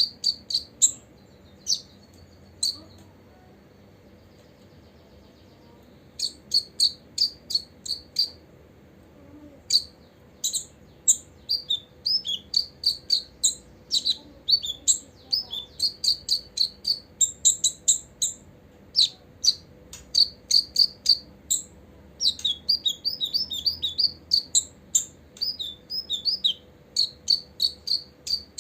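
Copper-throated sunbird calling: quick series of short, high, sharp chirps. The calling stops for about three seconds shortly after the start, then runs on densely.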